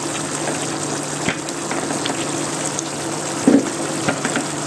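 Chicken pieces sizzling and bubbling in teriyaki and oyster sauce in a covered pan over a high flame: a steady hiss with a steady low hum beneath it. A couple of short knocks come through, the louder one about three and a half seconds in.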